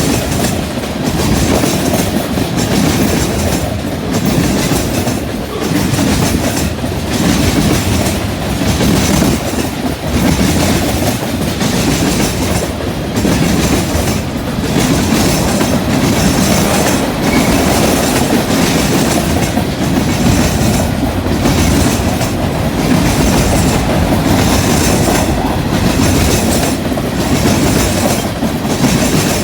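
CN freight train rolling past at speed, its steel wheels clattering over rail joints and a junction switch in an uneven, continuous rhythm.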